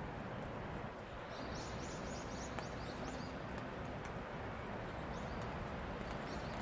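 Steady rain falling, with scattered drips tapping. A small bird chirps in a quick run of high notes about a second in, and a few more near the end.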